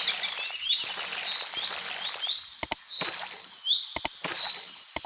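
Birds chirping and trilling, several short high calls overlapping with quick rising sweeps, and a few sharp clicks cutting in.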